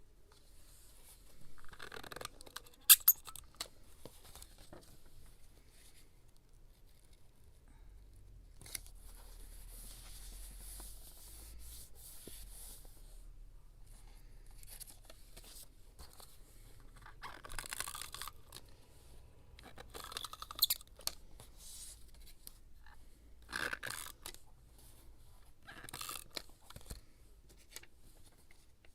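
Scrapbooking paper being handled: several short bursts of tearing and rustling, a longer steady rubbing stretch about nine to thirteen seconds in, and a pair of sharp clicks about three seconds in.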